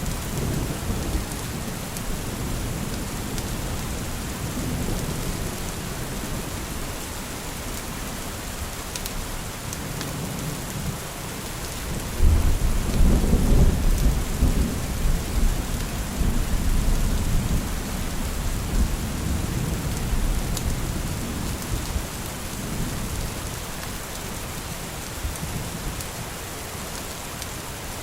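Steady rain with a roll of thunder. The thunder starts suddenly about twelve seconds in, rumbles loudest for a couple of seconds, then dies away slowly.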